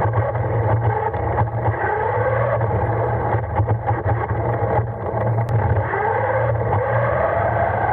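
Radio-controlled car's electric motor and gears whining, rising in pitch as it speeds up three times, over a steady low hum and a crackle of small tyres rolling on the ground, heard from on board the car.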